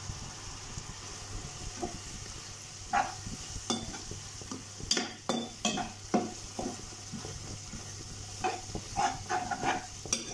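Onion-tomato masala gravy sizzling in a nonstick pan, with a steady frying hiss. A spatula stirs in freshly added spice powder, scraping and knocking against the pan in irregular strokes that begin a couple of seconds in.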